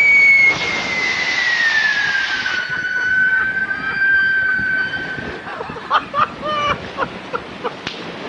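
Amateur rocket launching: a loud rush of motor noise with a high whistling scream that glides steadily down in pitch as the rocket climbs away. The rush stops about two and a half seconds in, and the whistle holds lower and fades a few seconds later.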